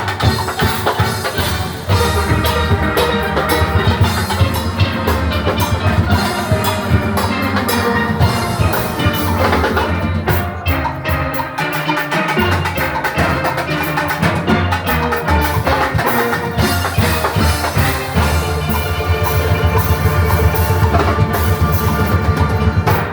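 Steel orchestra playing a fast, loud piece: many steelpans ringing out melody and chords over a drum kit and bass, ending abruptly right at the close.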